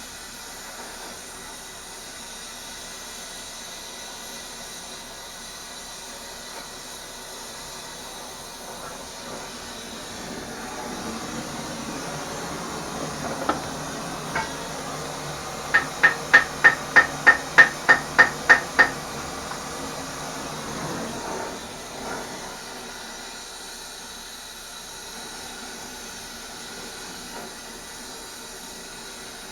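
Steady hiss throughout. About halfway through, a hammer strikes steel in a fast, even run of about eleven ringing blows over some three seconds, preceded by two single knocks.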